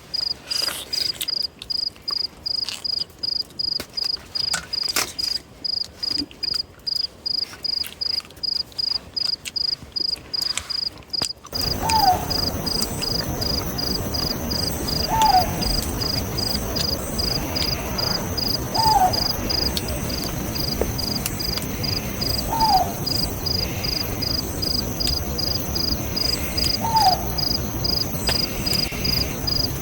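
An insect chirping in steady high-pitched pulses, about three a second. About eleven seconds in, a steady hiss comes up underneath, and a short falling call starts repeating every three to four seconds.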